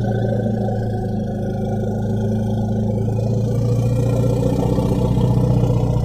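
Mammoth sound effect: one long, low growl that holds steady throughout.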